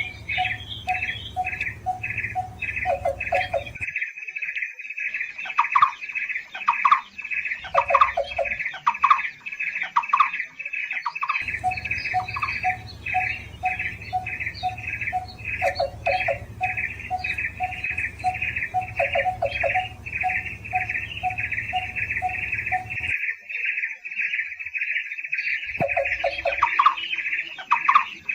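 Barbets calling: a fast, steady run of repeated short notes, about three a second, with a second bird's lower notes repeating alongside. The sound cuts off and restarts abruptly several times, as in an edited lure-call recording.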